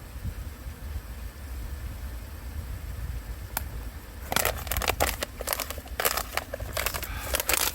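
Crinkling and rustling of plastic or nylon material being handled and bundled up, starting about halfway through over a low steady rumble.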